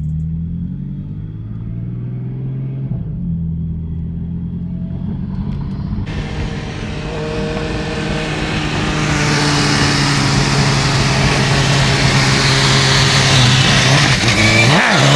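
A car's engine and exhaust under way, with the exhaust valves open: a steady engine note that glides in pitch over the first few seconds, then road and wind noise building as the car gathers speed and the sound grows louder. Near the end the engine note dips and climbs again quickly, like a gear change.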